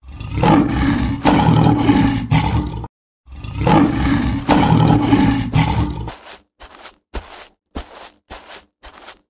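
Two long lion roars, one right after the other, followed by a quick, even run of footfalls, about three a second.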